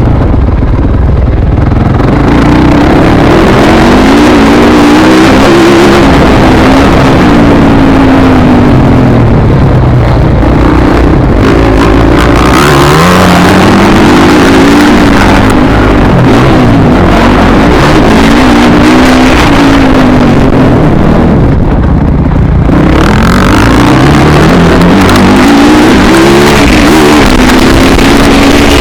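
Dirt bike engine ridden hard, revving up and dropping back over and over, its pitch climbing and falling every few seconds under a loud rush of noise.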